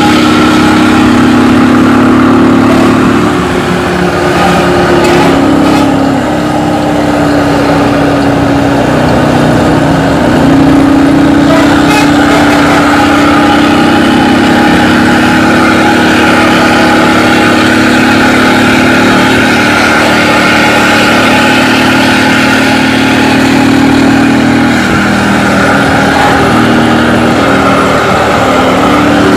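Bus engine running through a loud aftermarket exhaust, a steady drone that shifts slightly in pitch now and then.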